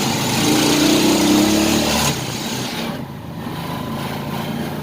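Motorcycle engine of a tricycle accelerating, its pitch rising over the first two seconds, then running more quietly and steadily.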